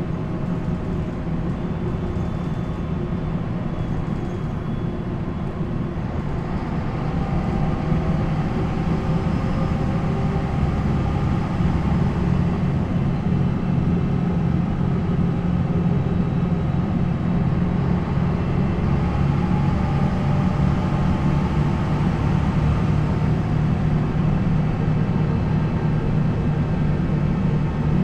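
MAN NL 263 city bus's D28 inline-six diesel, with its ZF Ecomat automatic gearbox, running under way; it gets louder about seven seconds in, with a faint whine that slowly rises in pitch, then holds steady.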